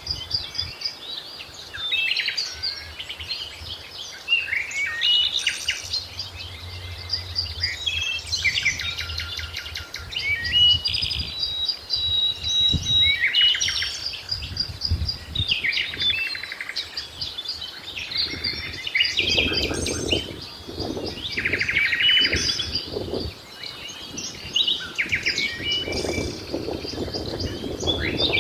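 Several wild birds singing and calling at once: overlapping chirps, rapid trills and short whistled notes. A lower, noisy sound comes and goes about two-thirds of the way through and again near the end.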